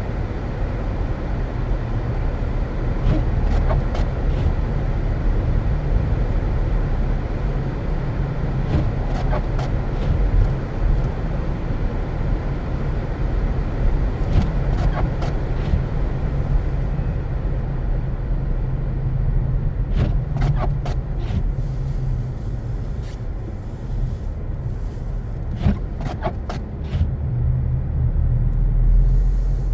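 Car driving on a snow-covered road: a steady low rumble of engine and tyres, with scattered sharp clicks and knocks now and then.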